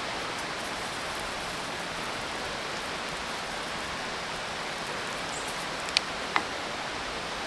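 Steady sizzling hiss of food grilling over charcoal, with two sharp pops from the fire near the end.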